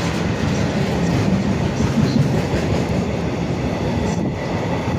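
Freight train hauled by a Class 66 diesel locomotive passing, its wagons giving a steady rumble and clatter of wheels on the rails.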